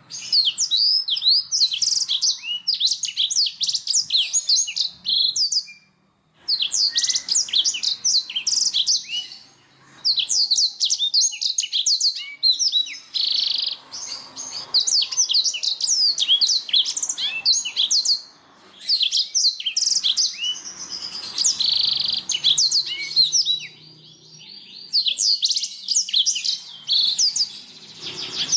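Canary song: long, rapid runs of high chirping and trilling notes, in phrases broken by brief pauses about every few seconds.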